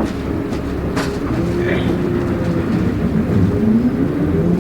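Route bus's engine running, heard from inside the passenger cabin. The engine note falls a couple of seconds in, then climbs again near the end as the bus accelerates. There are a couple of short sharp rattles near the start and about a second in.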